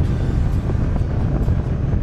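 Polaris Ranger 570 side-by-side driving, its single-cylinder engine and drivetrain making a steady low rumble, with wind buffeting the microphone.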